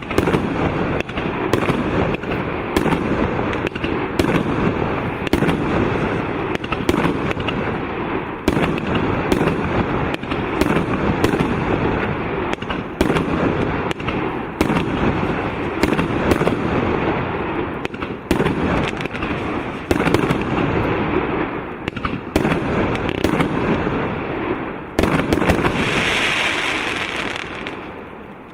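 A 25-shot, 1.2-inch firework cake firing: a rapid string of sharp bangs from the shots launching and bursting, over a steady rushing noise, fading out near the end.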